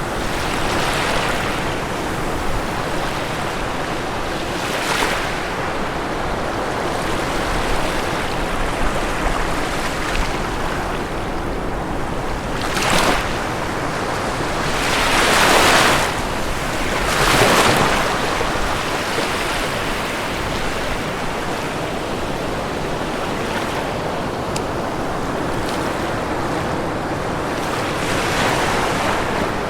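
Ocean waves breaking on a shore over a constant wash of surf. Several louder breakers come in close together about halfway through, and another one swells near the end.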